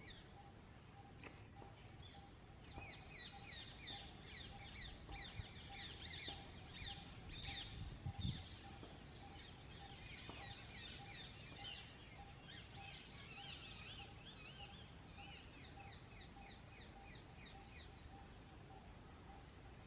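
Ringneck parakeets calling in runs of short, high chirps, several a second, in bouts that start and stop. A brief low thump about eight seconds in.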